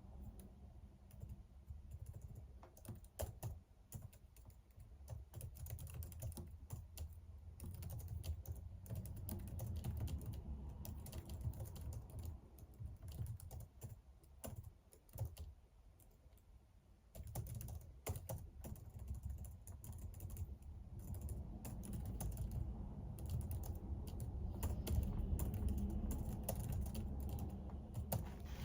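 Typing on a computer keyboard: irregular runs of key clicks, with a lull a little past halfway, over a low steady rumble.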